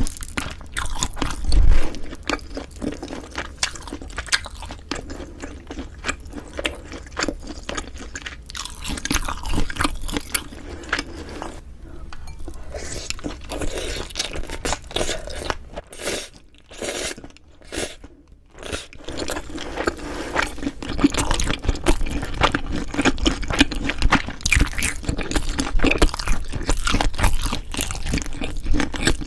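Close-miked chewing and mouth sounds of a person eating, with many small wet crackles and clicks, a low thump near the start, and short pauses a little past the middle.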